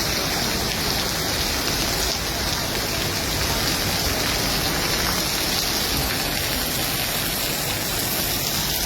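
Steady rain falling and hitting surfaces: a dense, even hiss that keeps up without a break.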